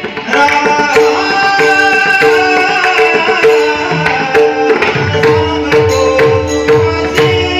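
Instrumental passage of Marathi devotional music: pakhawaj strokes played over steady held melody notes. From about four seconds in come deep bass strokes, several a second, each dropping in pitch.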